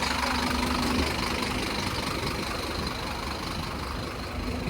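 Scania N230UD OmniCity double-decker bus's five-cylinder diesel engine idling steadily, a low rumble with a faint steady hum.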